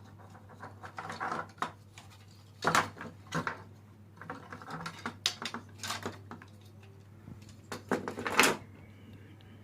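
Plastic clicks, knocks and rattles of a MIDI keyboard's removed key octave being handled, with louder scraping clatters about three seconds in and again near the end. A faint steady low hum runs underneath.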